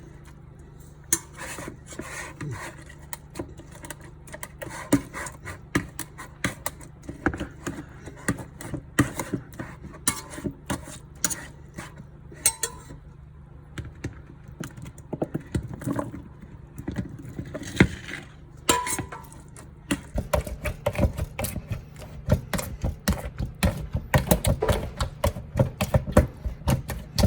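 Wild blackberries being mashed with the bottom of a glass canning jar: repeated clinks and knocks of glass against the container, with squishing in between. The strokes come faster and thicker in the last third.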